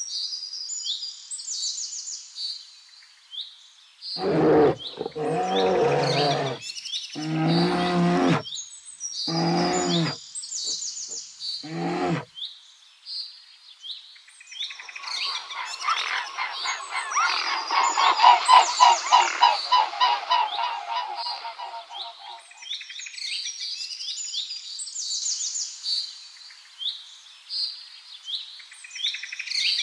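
Small birds chirp throughout. Between about four and twelve seconds in, a donkey brays in four calls that rise and fall. From about fifteen to twenty-two seconds in, a rapid rattling bird call sounds over the chirping.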